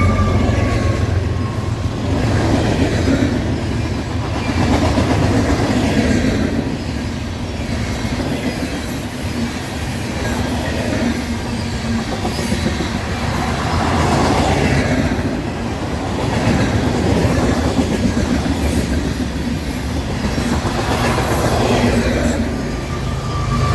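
Freight train cars rolling past on the rails, a steady clatter and rumble of wheels that swells and eases every couple of seconds.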